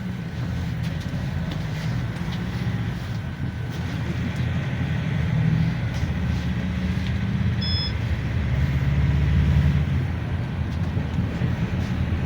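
Inside a GAZelle Next minibus on the move: the low drone of the engine and drivetrain swells twice as it pulls harder, with small rattles from the cabin. A short electronic beep sounds about eight seconds in.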